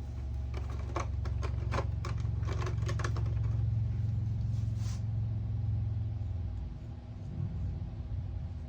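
A Snap Circuits sound IC playing its machine-gun sound through a small speaker: a low, rapid buzzing rattle that stops about six and a half seconds in. Several sharp taps, the tapping that triggers the circuit, come in a cluster during the first five seconds.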